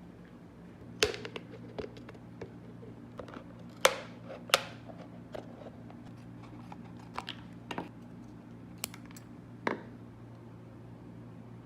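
Scattered sharp clicks and knocks of wooden parts and hand tools being handled during workshop assembly, over a steady low hum; the loudest knocks come about a second in, twice around four to five seconds in, and near the end.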